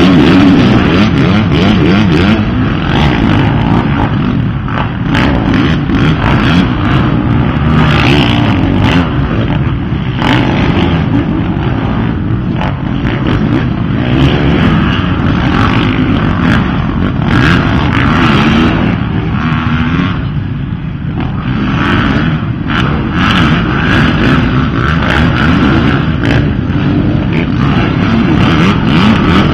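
Several dirt bike engines racing together, their pitch rising and falling constantly as riders rev, shift and ease off, with a dip in loudness about two-thirds of the way through.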